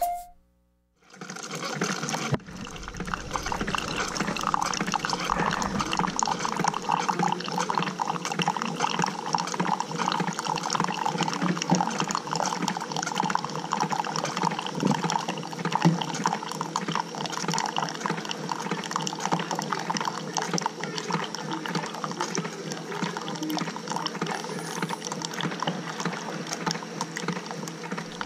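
Single-serve coffee brewer dispensing a steady stream of hot coffee into a ceramic mug, the liquid running and trickling as the mug fills. It starts about a second in and carries on steadily.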